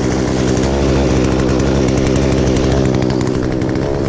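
Gas two-stroke chainsaw running loudly and steadily at high revs, with a heavier low note from about a second in to near three seconds.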